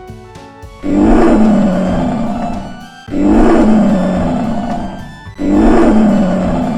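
A big cat roaring three times, each roar about two seconds long and fading away, over light background music.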